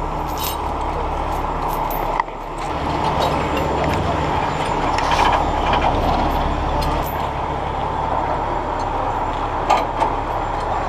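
Heavy truck's diesel engine running steadily, dipping for a moment about two seconds in and then running a little harder, with scattered short metallic clinks.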